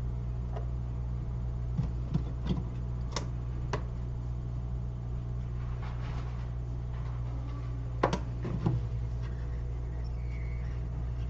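Steady low electrical hum with a few light clicks and taps, in two short clusters, from small tools and parts being handled at a repair bench.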